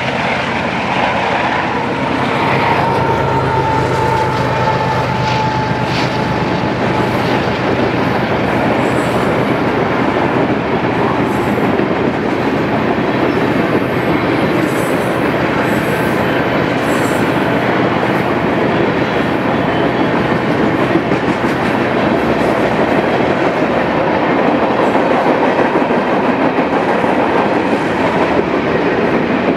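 Union Pacific freight train passing close by: the diesel locomotives' engines drone for the first several seconds, then a long string of tank cars and freight cars rolls past with a steady, loud rumble of steel wheels on the rails.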